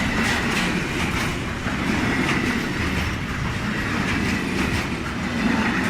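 Freight train wagons rolling past at speed, wheels clacking over the rail joints in a steady run of beats over a continuous rumble, with a thin high tone held underneath.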